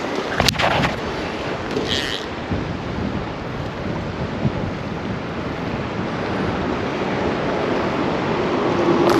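Steady rushing noise of wind on the microphone and flowing creek water, with a sharp click about half a second in.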